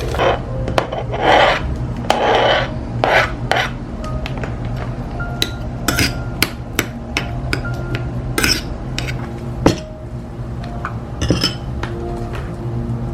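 Kitchen handling sounds of dishes and utensils: a few scraping strokes in the first three seconds, then scattered clicks and clinks, over soft background music.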